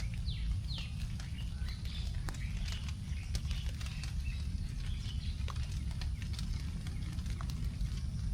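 Leftover raindrops dripping onto forest leaves in scattered ticks, with birds chirping, a couple of quick falling chirps near the start. A steady low rumble runs underneath.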